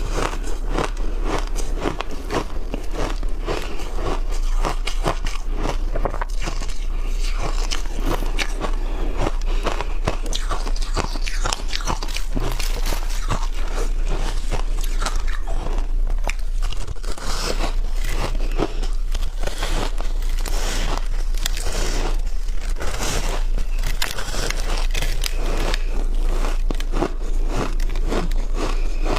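A person biting and chewing shaved ice with matcha and milk powder: a rapid, continuous run of crunches and crackles. A steady low hum runs underneath.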